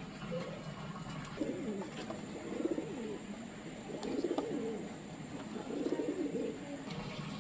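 Pigeons cooing: about four low, wavering coos a second or two apart.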